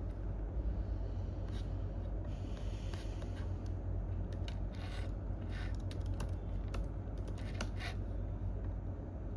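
Computer keyboard typing: scattered keystrokes, then an irregular run of key clicks about halfway through, over a steady low room hum.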